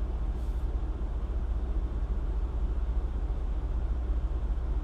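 Steady low rumble of an idling semi-truck diesel engine, with a brief rustle about half a second in.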